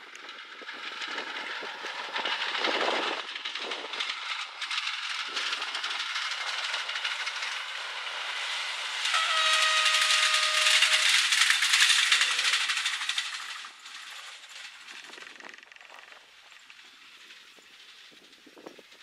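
Two-car diesel multiple unit passing by: its engine and wheels grow louder as it approaches. About halfway through it sounds one steady horn blast of about two seconds. The train fades away after that.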